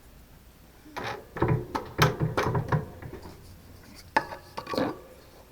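Hard parts knocking and clattering together as they are handled: a quick run of knocks over about two seconds, then two more near the end.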